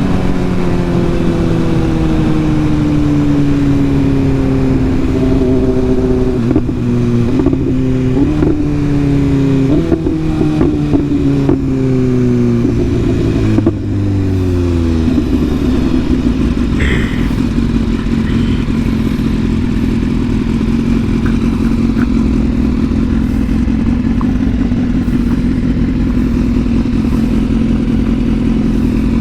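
Sport motorcycle engine slowing down, its pitch falling, with short rev blips on downshifts about a third of the way in, then settling into a steady idle for the second half.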